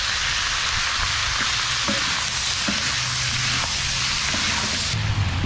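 Sausage and onions sizzling hard in a large barbecue wok, stirred with two wooden spatulas that scrape and click against the pan now and then. The high sizzle drops away suddenly near the end.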